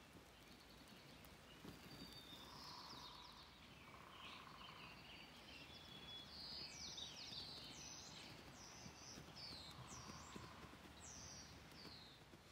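Faint birdsong outdoors: several short chirps and trills, with a few brief held notes lower down.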